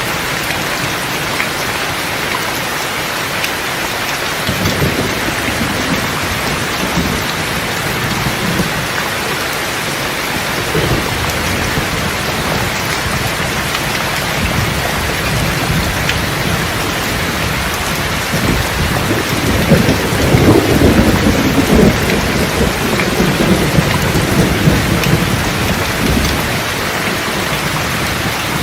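Steady rain with rolls of thunder: low rumbles about five and ten seconds in, and a louder, longer roll starting about twenty seconds in and lasting several seconds.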